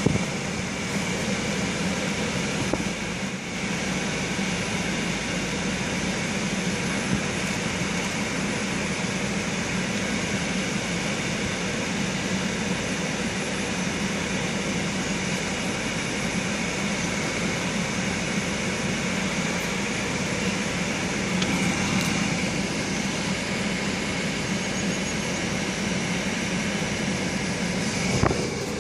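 Steady hum of a car's engine running, heard from inside the cabin.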